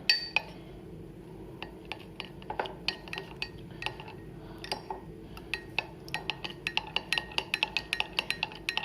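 Spoon stirring powder into a cup of milk, clinking repeatedly against the sides of the cup. The clinks are sparse at first and come faster and more regularly over the second half.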